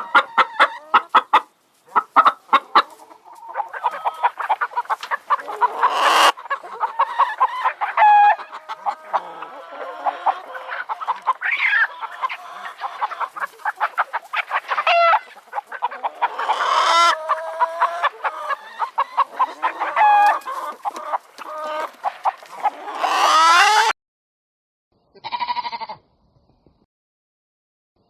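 Chickens clucking and calling in a busy flock for most of the stretch. The sound then cuts off abruptly, and a sheep bleats twice near the end.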